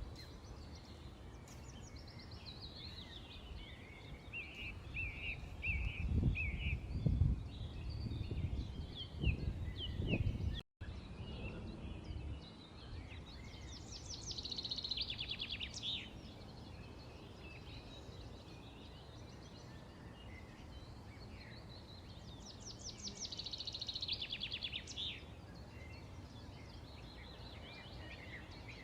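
Several birds chirping and calling outdoors, with two fast trilling calls, one about halfway through and one near the end. Between about 6 and 10 seconds in, bursts of low rumble are heard, and the sound drops out for a moment just before 11 seconds.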